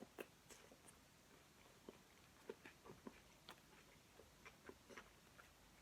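Faint chewing close to the microphone: a person eating, with soft, scattered mouth clicks.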